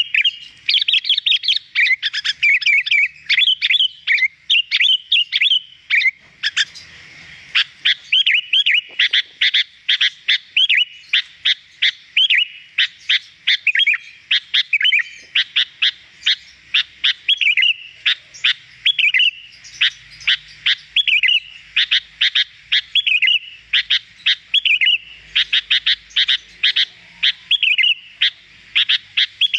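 Sooty-headed bulbul (kutilang) singing vigorously in clear, rapid chirping phrases, a nonstop run of short high notes with hardly a pause.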